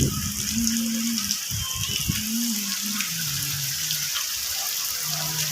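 Steady rain falling, a dense even hiss, with a low hum that comes and goes underneath.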